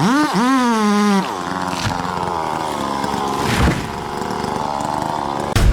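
Two-stroke chainsaw at full throttle, its high engine note wavering for about a second, then running steadily under load with a sharp crack partway through. A deep boom hits right at the end.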